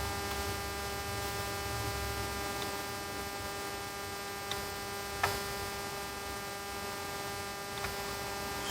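Steady electrical mains hum, with a few faint clicks: one about four and a half seconds in, a slightly louder one a little after five seconds, and another near the end.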